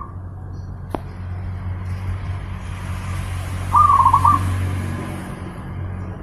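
Zebra dove (perkutut) cooing once about four seconds in: a short call of rapid staccato notes. Under it runs a steady low hum and hiss, with a single sharp click about a second in.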